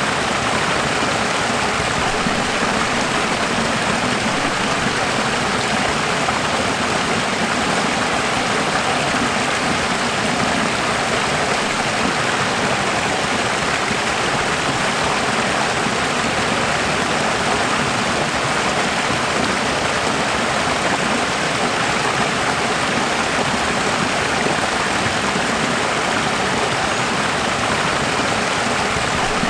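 Running water rushing in a steady, unchanging stream.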